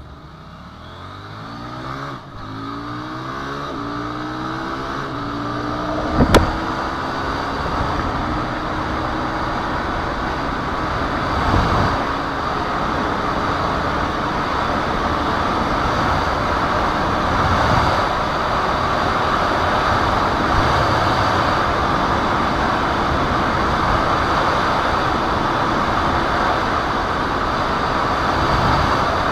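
KTM motorcycle engine accelerating hard, its pitch climbing with breaks at gear changes about two seconds and six seconds in. After that, loud wind rush on the microphone at high speed mostly buries the engine and builds slowly.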